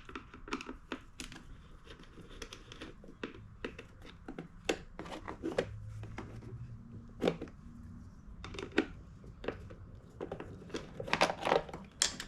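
Irregular clicks, taps and rattles of hand tools on the generator's plastic bodywork and carburetor area, with a quick run of clicks near the end.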